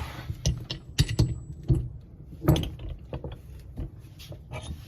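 Metal workholding parts of a System 3R-type tool chuck being handled and fitted together: a run of irregular sharp metal clicks and knocks, the loudest about a second in and again about halfway through.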